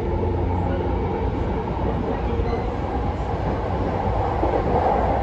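Running sound inside a passenger car of a JR East E233-0 series electric train on the move between stations: a steady rumble of wheels on rail with a faint steady hum above it.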